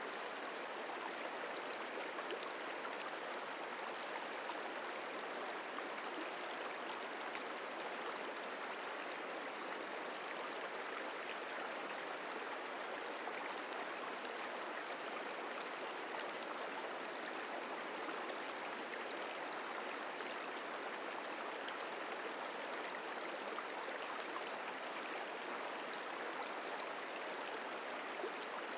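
The Merced River flowing, a steady rush of moving water without breaks or changes.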